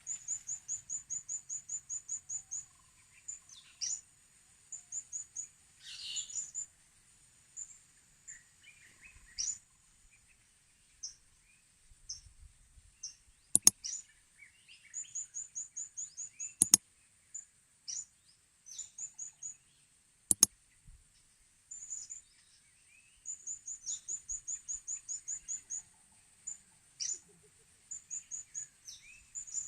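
Blue-crowned hanging parrots (serindit) calling: rapid runs of high, thin chirps, about six a second, recurring throughout, over a steady high insect hiss. Three sharp clicks stand out, about 13 s, 16 s and 20 s in.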